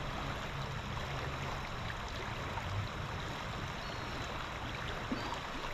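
River water flowing steadily around a rock, an even rushing sound.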